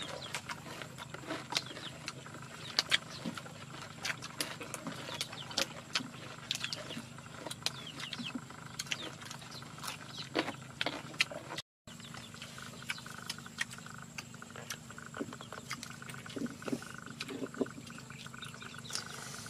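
Close-up mouth sounds of eating with the fingers: chewing and lip smacks, heard as a run of small irregular wet clicks. The sound cuts out for a moment about twelve seconds in.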